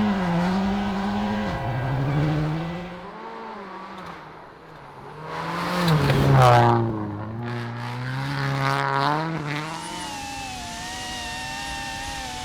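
Rally car engine revving hard and easing off as it climbs and drops through the gears, loudest about six seconds in. Near the end, a higher, wavering whine takes over.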